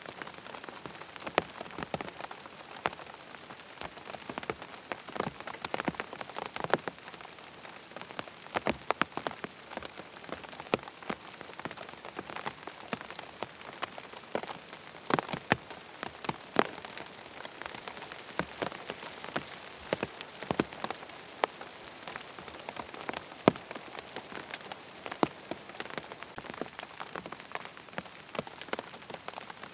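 Steady rain falling, an even hiss with frequent sharp, irregular drop-like ticks scattered throughout.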